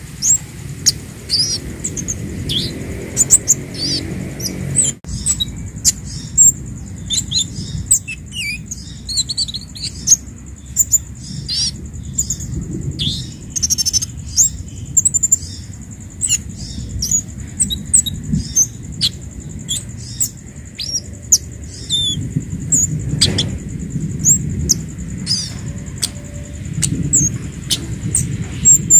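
Kemade songbird calling: a busy run of short, thin, high chirps and quick up-and-down twitters, packed closely together, over a low background rumble.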